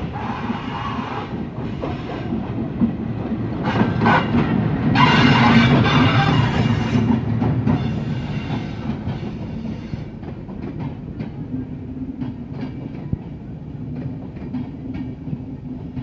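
Sundarban Express passenger train running on the rails: a loud rush of wheel and rail noise swells to its loudest about five seconds in and eases off, followed by lighter clicks of wheels over rail joints.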